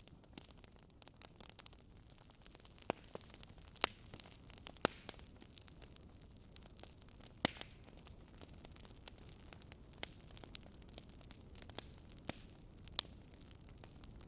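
Wood fire burning in a fireplace, crackling with irregular sharp pops over a low steady hiss; the loudest pops come about four, five and seven and a half seconds in.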